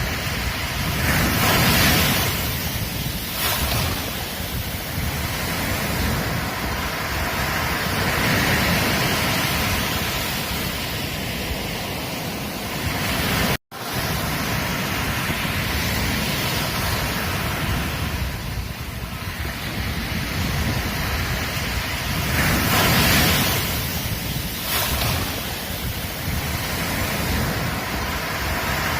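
Ocean surf on a beach: a continuous wash of breaking waves that swells and ebbs every few seconds. About halfway through the sound cuts out for an instant and then resumes.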